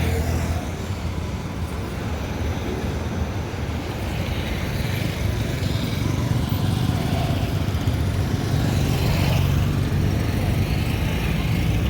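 Street traffic: road vehicles running and passing, a steady low rumble that swells as a vehicle goes by about two-thirds of the way in.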